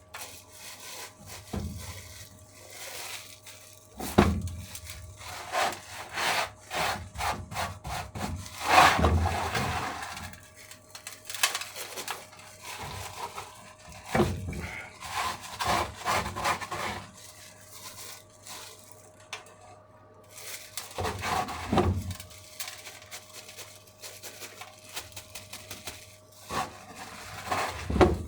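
Hands pushing sage and onion stuffing into a whole raw chicken: irregular rubbing and scraping handling noises in uneven strokes, over a faint steady hum.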